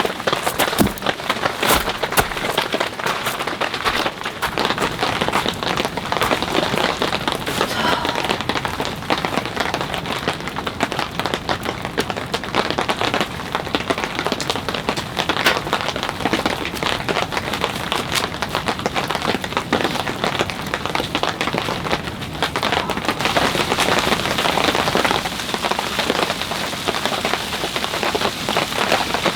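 Steady winter rain pouring down, a dense hiss spotted with countless sharp raindrop taps.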